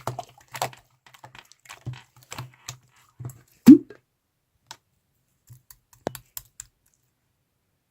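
Slime being squeezed and poked, giving a run of small sticky clicks and pops. One loud squelching pop comes about halfway through, and a few softer clicks follow before it goes quiet near the end.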